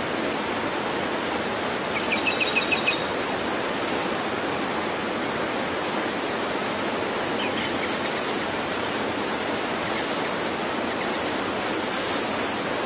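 Steady rushing of flowing water, like a stream or waterfall. About two seconds in, a bird gives a quick run of about seven short chirps.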